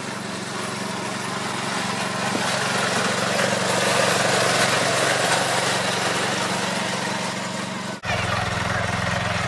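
Small Bolens garden tractor engine running steadily under way, growing louder toward the middle and easing off again. About eight seconds in it cuts out abruptly and comes back with a different engine note.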